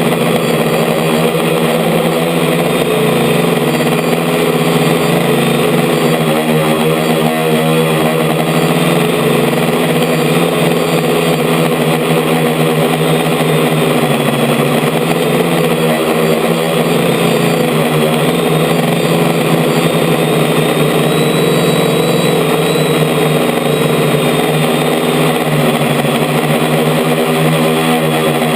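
DJI F450 quadcopter's electric motors and propellers running with a loud, steady buzz of several tones together, wavering briefly in pitch as the motor speeds shift, about a quarter of the way in and again just past halfway.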